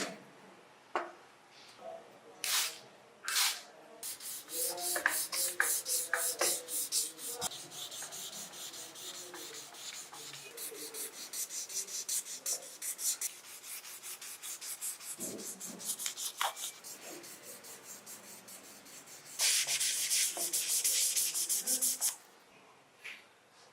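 Hand sanding: quick back-and-forth rubbing strokes, about four to five a second, after a couple of sharp taps. The strokes get louder for a couple of seconds near the end, then stop.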